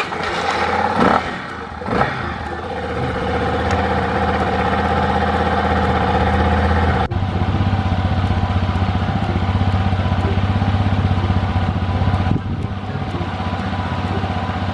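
Yamaha Serow's single-cylinder four-stroke engine catching, blipped twice in the first couple of seconds, then running at a steady idle. This is the usual run after a motorcycle battery replacement, checking that the new battery starts the bike.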